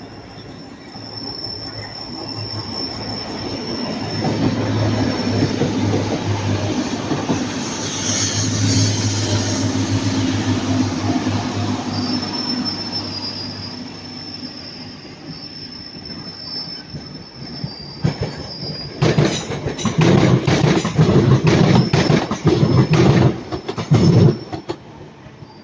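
A train passing close by with its wheels squealing on the curve, over a low rumble that builds and then fades. Near the end come several loud, irregular knocks and clatter.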